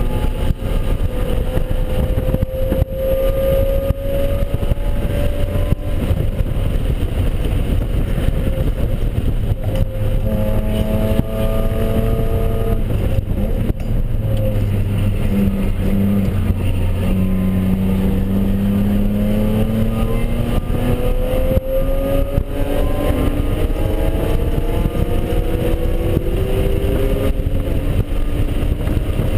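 BMW E46 3 Series engine heard from inside the cabin at full track pace, its revs climbing and falling several times as the driver accelerates, changes gear and lifts for corners, over steady road and wind noise.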